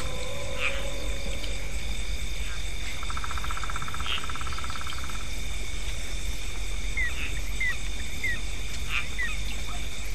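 Night chorus of frogs and insects: a steady high insect drone throughout, a fast frog trill lasting about two seconds from around three seconds in, and short chirping calls near the end.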